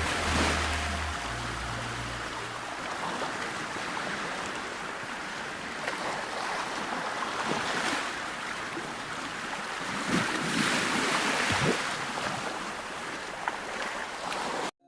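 Ocean surf: an even rush of waves washing in, swelling louder several times as waves break. A fading bass note from music lingers under the first couple of seconds, and the surf cuts off suddenly just before the end.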